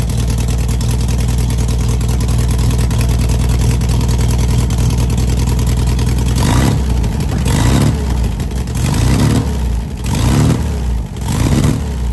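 Freshly rebuilt air-cooled flat-four engine of a 1970 Volkswagen Beetle idling steadily. About six seconds in it is blipped on the throttle about five times, each rev rising and falling quickly, as the carburetor is shown to respond.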